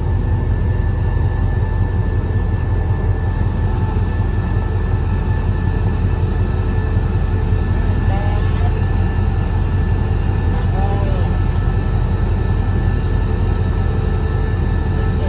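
Diesel locomotive engine running steadily at idle, a constant low drone with a faint overtone whine, and faint voices briefly about eight and eleven seconds in.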